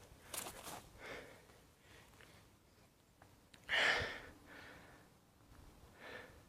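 A person breathing close to a phone microphone, with one louder breathy exhale, like a sigh, about four seconds in.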